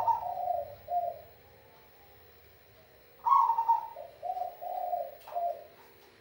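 Zebra dove (perkutut) singing two cooing phrases, the second about three seconds in; each opens with one loud note followed by a few shorter coos. The bird is a 'kung'-voiced perkutut.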